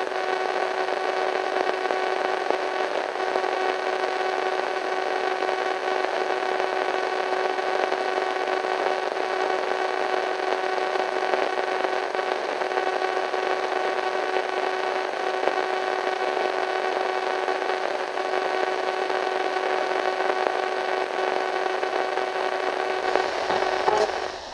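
Radio static: a steady hiss with a constant, eerie electronic hum running through it. About a second before the end the static changes and breaks into short crackles.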